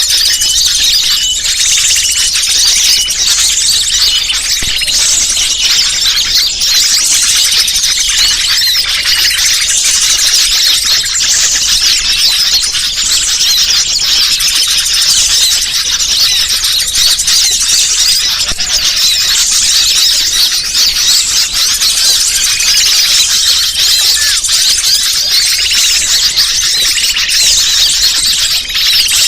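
Bird-luring call recording: a dense, unbroken chorus of high-pitched chirping and twittering from many small birds, played to draw wild birds in.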